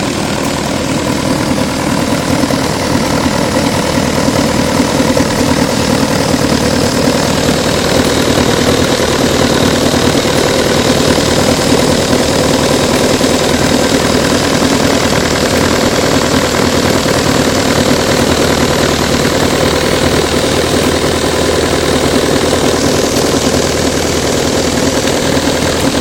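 Small model gasoline engine running steadily at an even speed.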